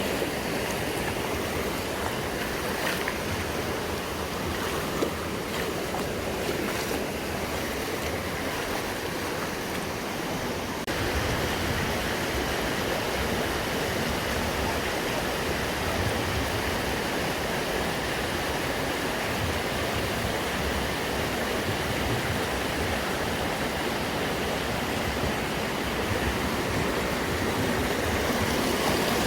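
Steady rush of flowing river water. About eleven seconds in, the sound shifts to a fuller, lower rush.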